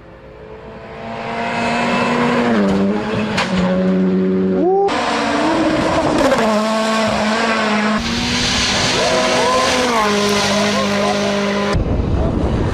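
Modified car engines revving and pulling away, in a string of short cuts. The sound swells up over the first two seconds.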